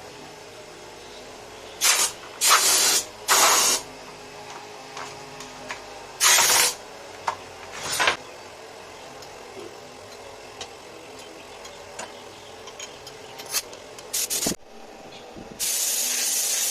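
Compressed air let out of the DIY refrigerator-compressor air tank through a nozzle in about seven short hissing bursts, the last one the longest, near the end. A faint steady hum runs underneath.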